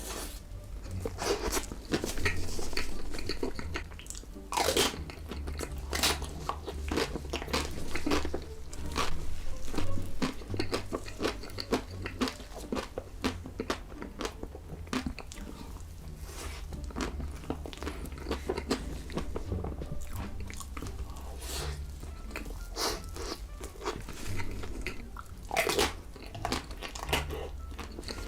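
Close-miked mukbang eating: biting into crunchy food and chewing, a dense run of crisp crunches and mouth sounds.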